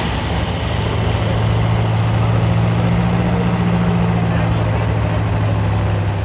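Vintage tractor engine running at a steady speed, a low even note.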